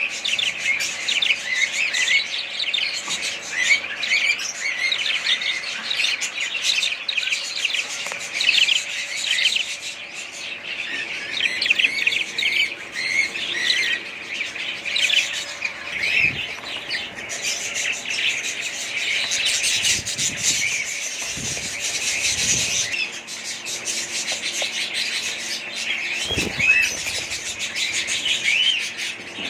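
A flock of small cage birds chirping and chattering nonstop, many short overlapping calls at once, with a few soft low bumps in the second half.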